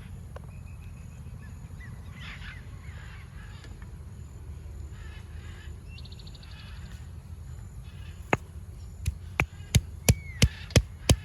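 Birds calling, with crow-like caws, over a steady low rumble; from about eight seconds in, a knife chops on a board with sharp, regular strokes, about three a second.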